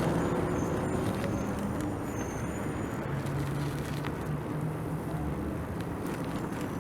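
Road traffic heard from a bicycle: a motor vehicle's engine hum fading over the first couple of seconds, another engine hum a few seconds in, over steady road noise.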